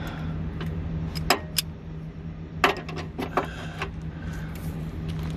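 Hand wrench clinking against the subframe bar nuts of a Fiat 500, a handful of sharp metal clicks as the stubborn nut is worked, over a steady low hum.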